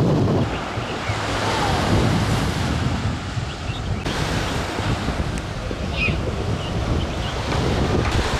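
Strong wind buffeting the microphone over the wash of waves breaking on the shore, the sound of rough, windy sea conditions.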